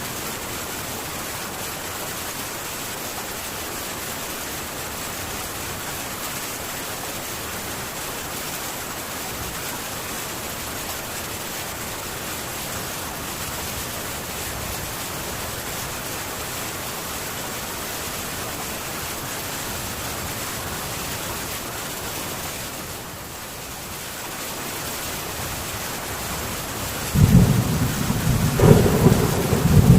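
Heavy rain falling steadily on a metal tin roof, an even hiss. About three seconds before the end, a loud low rumble of thunder sets in and keeps going.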